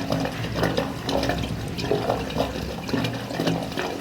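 Water splashing and rushing in irregular surges, with a faint steady low hum underneath.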